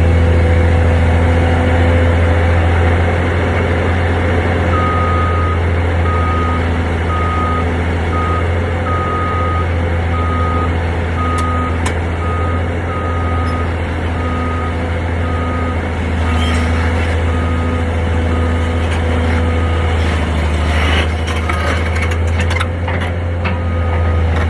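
Heavy construction machine's engine running steadily, with its reversing alarm sounding regular high beeps, about three every two seconds, from about five seconds in.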